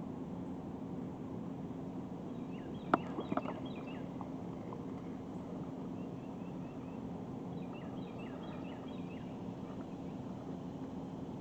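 Birds chirping in two short bursts of quick, falling notes over a steady low background hum. A sharp click about three seconds in, followed by a few lighter clicks, is the loudest sound.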